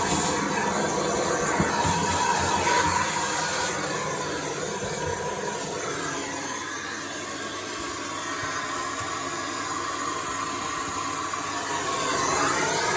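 Miele C3 vacuum cleaner running, sucking lint out of a tumble dryer's interior; its steady rushing hiss eases a few seconds in and rises again near the end as the nozzle is worked, with a few light knocks.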